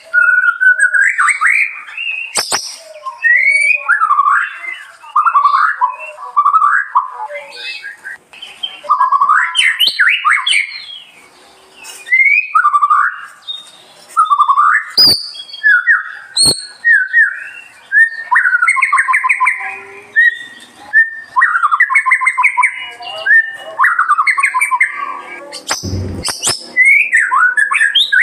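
A songbird singing a long, varied song of whistled phrases, quick trills and pitch glides, broken by short pauses, with a few sharp clicks along the way.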